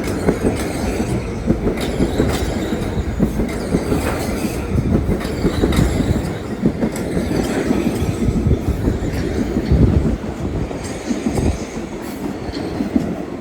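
Metro-North commuter train passing close by, its wheels clacking over rail joints in a continuous run of sharp clicks over a steady rumble, with some wheel squeal.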